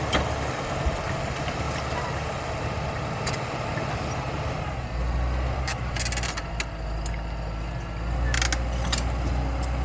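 Caterpillar D5K XL bulldozer's diesel engine running steadily, working harder about halfway through and again near the end, with scattered short clanks.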